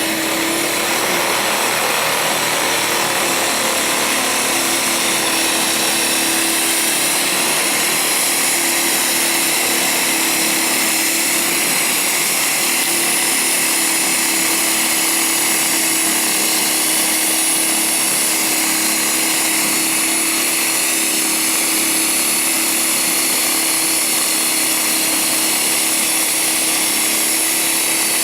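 Blizzard Ex1600win electric snowblower running steadily: an even mechanical hum with a thin high whine over it.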